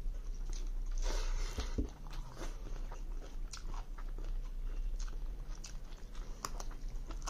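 Chewing and biting while eating rice and chicken curry by hand, a string of short wet clicks and crunches, with fingers working the rice on a metal plate.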